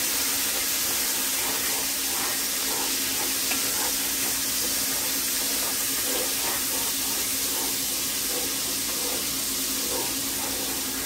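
Minced garlic sizzling in a hot cast-iron skillet, a steady hiss, with light stirring sounds now and then.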